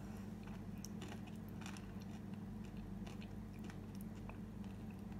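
Faint chewing of a mouthful of crème brûlée with a crisp caramel top, a few small crunchy clicks scattered through it, over a steady low hum.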